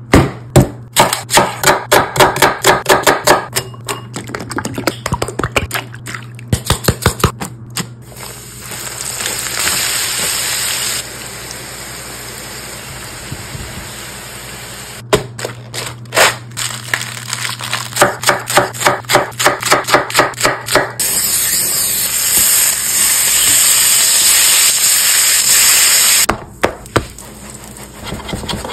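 Cooking sounds: runs of quick taps and knocks from handling food and utensils, and stretches of hot oil sizzling in a pan as onion strings fry and buns toast.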